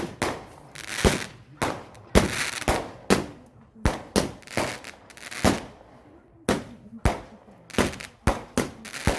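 Fireworks going off: an irregular rapid series of sharp bangs, about two a second, each with a short echoing tail.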